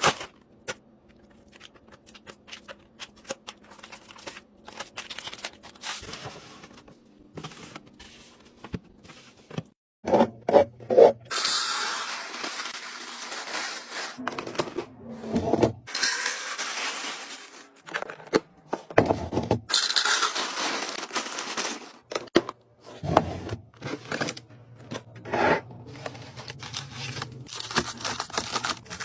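Food packaging and containers handled while restocking a fridge: faint scattered clicks and taps at first, then, from about a third of the way in, loud bouts of scraping and tearing, like plastic wrapping being torn open and rubbed, each lasting a few seconds.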